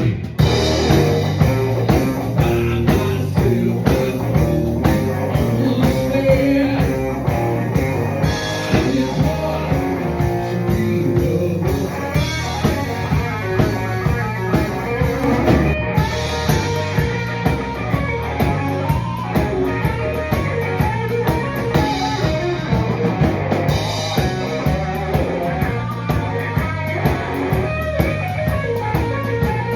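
Live rock music: overdriven electric guitar, played through a small valve-and-class-D power amp driving a guitar speaker cabinet, over a steady drum beat.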